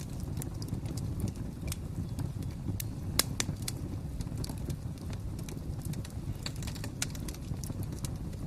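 Wood fire crackling: a steady low rumble with irregular sharp pops and snaps. The loudest pop comes about three seconds in.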